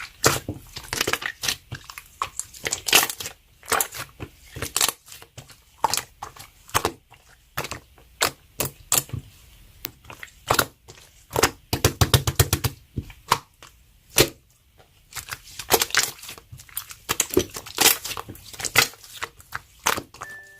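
Slime being squished and stretched by hand, trapped air popping in irregular sharp crackles and clicks, densest about twelve seconds in.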